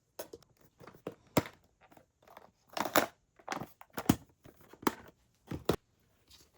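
Irregular crinkling, crumpling and tearing handling sounds, about a dozen short bursts of different loudness over six seconds.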